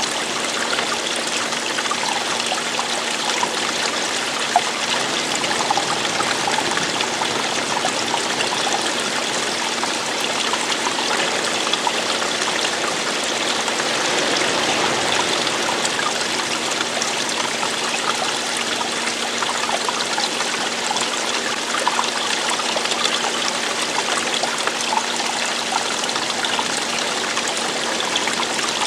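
Running water of a stream or small waterfall, a steady babbling and splashing rush with fine trickling detail, unchanging throughout.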